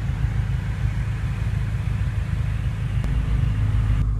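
Steady low rumble of the BMW M5 F10's V8 engine idling, with a faint click about three seconds in.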